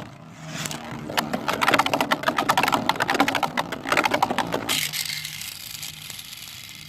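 A 3D printed Plastic Generation Beyblade spinning right in a plastic stadium just after its launch. It gives a fast, dense rattle of clicks as it skitters and knocks against the stadium, then settles past the middle into a quieter, high whirring hiss that slowly fades.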